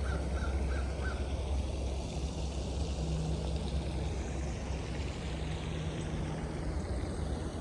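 Steady noise of a night rainstorm, with a strong low rumble of wind on the microphone. Near the start, four short high calls in quick succession.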